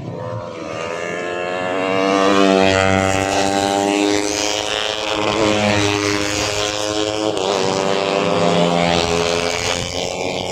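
Tuned 150cc four-stroke underbone race motorcycles running hard on the track, several engines at once rising and falling in pitch. The sound grows louder about two seconds in and stays loud.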